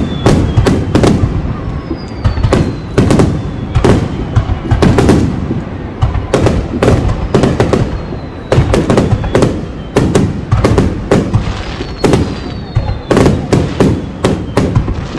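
Fireworks display: aerial shells bursting in a rapid, loud barrage, several sharp booms and cracks a second. Now and then a high whistle falls in pitch.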